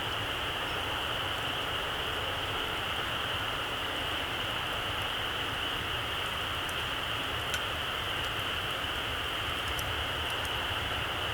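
Small campfire burning low to embers: a steady hiss with a high, even band, broken by a few faint, sharp crackles, the clearest about two-thirds of the way through.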